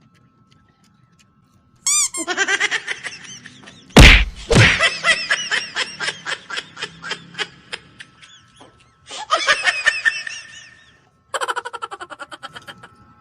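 Bursts of hearty laughter, quick repeated 'ha-ha' pulses in several stretches, with a loud thump about four seconds in.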